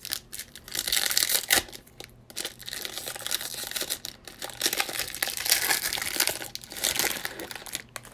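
Plastic wrapping on a trading card box and its packs being torn open and crinkled, in irregular crackling bursts.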